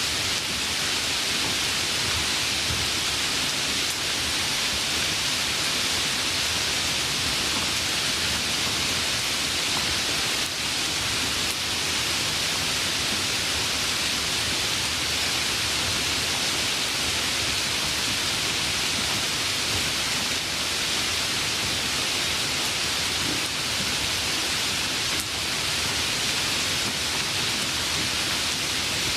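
Steady, even rain, a dense hiss of falling drops with no thunder heard.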